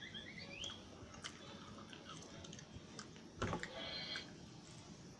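Someone chewing crisp round crackers: scattered sharp crunches, the loudest about three and a half seconds in. A few short rising chirps sound near the start.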